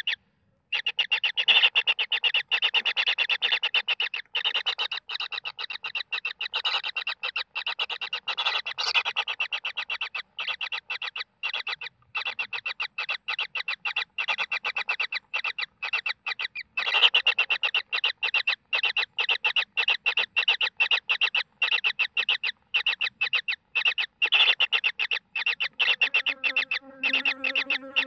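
Kingfisher chicks calling in a rapid, unbroken run of short, high calls, several a second, with a brief pause near the start: the begging calls of nestlings wanting food.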